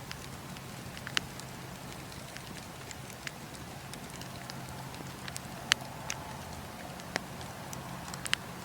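Campfire burning: a steady hiss with scattered sharp crackles and pops, the loudest pop about two thirds of the way through.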